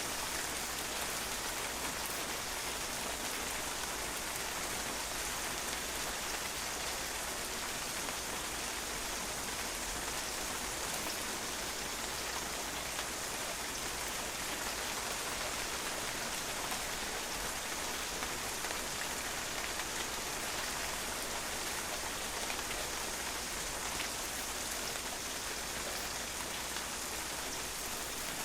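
Steady rain, the drops pattering on a patio.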